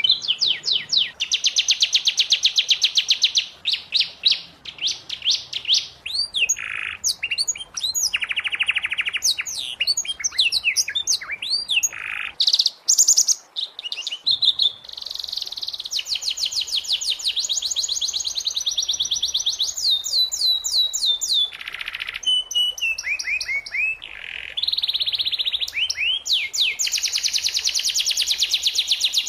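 Domestic canary singing a long, unbroken song of rapid trills: runs of fast repeated notes that switch to a new pattern every second or so, with sweeping whistled notes between the runs.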